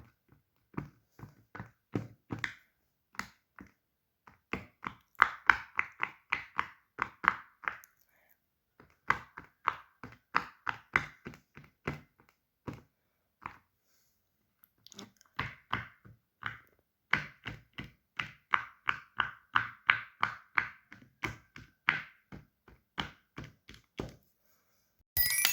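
Fidget toys being clicked and tapped by hand: runs of small sharp clicks, several a second, broken by short pauses.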